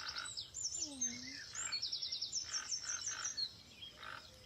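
Several birds calling: rapid high trills and short chirps, with shorter, lower calls repeating underneath.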